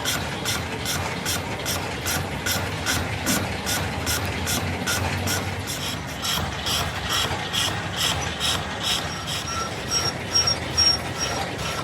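A machine in a metalworking shop running with an even, regular metallic tick about three times a second over a low hum, with ringing metallic tones in the second half.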